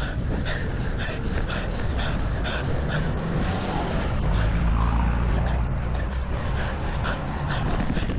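Low, steady wind rumble on an action camera's microphone while riding a road bike. Faint short ticks come about two or three times a second, in time with the pedal strokes.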